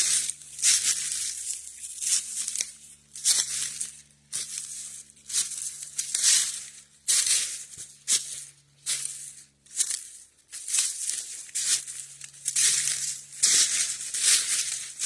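Footsteps crunching through dry fallen leaves on a woodland hillside, a steady walking rhythm of about one and a half crunching steps a second.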